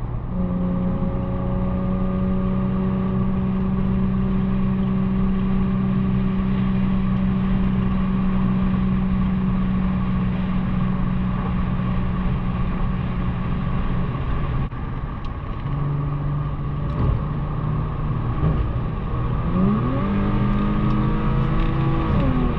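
Infiniti G37's 3.7-litre V6 with muffler and resonator deleted, running on the road with a steady exhaust drone at cruise. About fifteen seconds in the engine note drops lower. Near the end the revs climb briefly and fall again.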